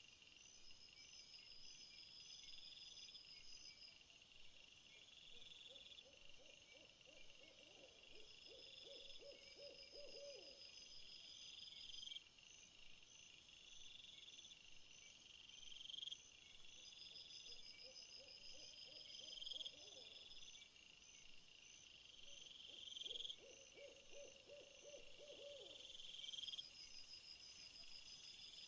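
Faint nature ambience: insects chirping in steady repeating phrases, with a low wavering trill that comes three times, each lasting a few seconds.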